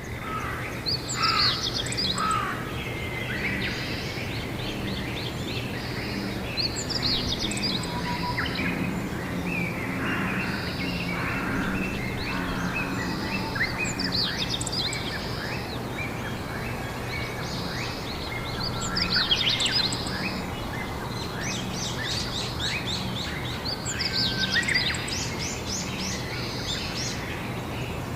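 Several songbirds singing and chirping outdoors in spring, in frequent short overlapping phrases, over a steady low hum of background noise.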